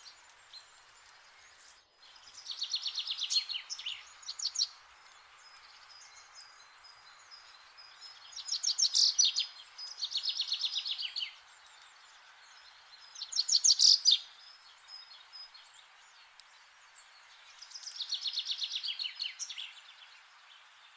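A songbird singing short trilled phrases of fast repeated notes, about five phrases spaced a few seconds apart, over a steady faint hiss of outdoor ambience.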